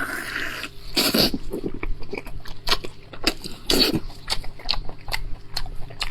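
A person chewing and biting into braised lamb chops close to the microphone: a run of wet smacking clicks, with louder bites about one second and about four seconds in.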